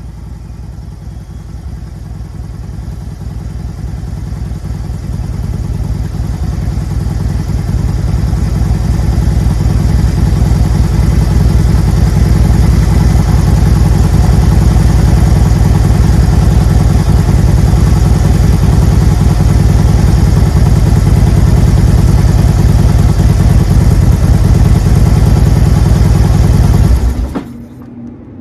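Harley-Davidson V-twin motorcycle engine running steadily after an oil change, with an even low pulse. It grows louder over the first ten seconds or so, holds, then cuts off suddenly near the end as the engine is switched off.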